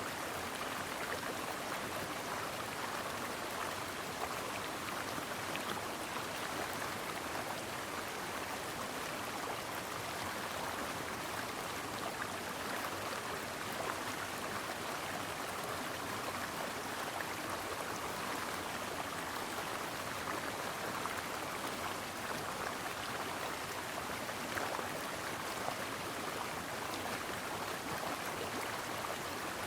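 Brook water flowing steadily, an even rushing and babbling with no breaks.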